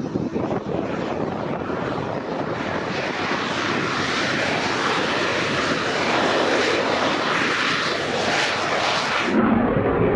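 A fixed-wing military training aircraft's engine noise as it flies by, a dense rushing sound that grows gradually louder, then cuts off abruptly a little past nine seconds in, giving way to a lower rumble.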